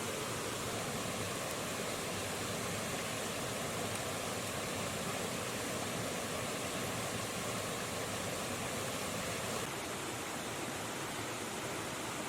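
Steady rushing of river water, a little quieter after about ten seconds.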